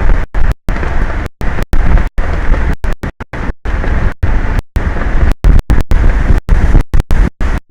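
Strong wind rumbling on the microphone of an exposed offshore ocean camera, chopped by many brief, irregular dropouts of total silence several times a second.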